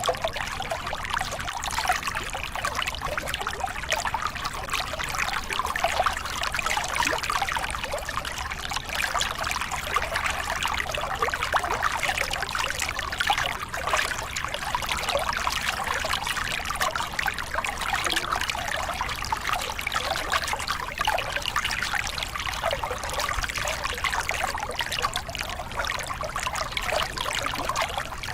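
Small river cascade: water pouring and splashing over rocks in a steady, continuous rush, with a constant bubbling flicker.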